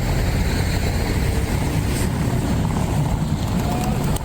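Steady low rumble of city street ambience, with no distinct event standing out.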